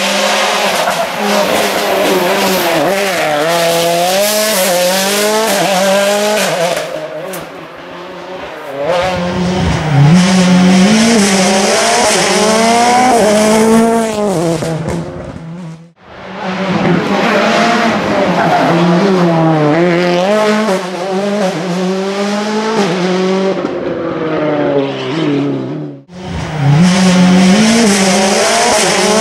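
Rally cars driven hard on a tarmac special stage, each engine revving up and falling back through quick gear changes, with tyre squeal. It comes as several separate passes, with breaks about a quarter, half and most of the way through.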